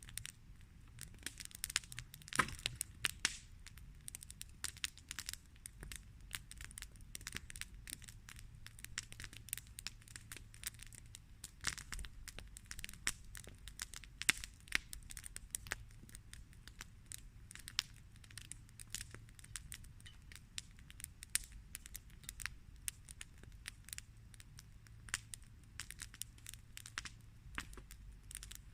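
Campfire crackling, with irregular sharp snaps over a faint low hum.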